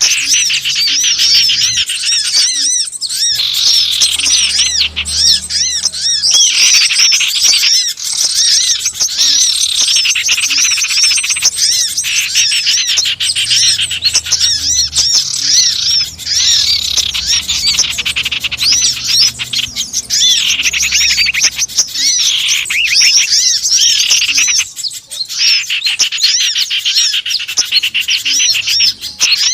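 Dense, unbroken chatter of many small birds: rapid, overlapping high chirps and trills, played as a bird-lure call to draw wild small birds in.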